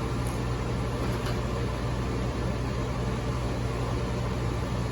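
HVAC unit running steadily: an even rush of blower air over a constant low electrical hum.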